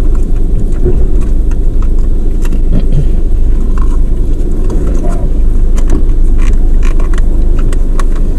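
Steady low road rumble inside a moving car's cabin, with scattered light clicks and rattles from food containers being handled.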